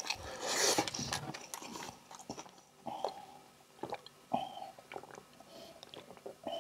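Mouth sounds of a man chewing a last mouthful, with wet clicks and smacks, then quieter, sparser sounds as he drinks water from a glass mug in the second half.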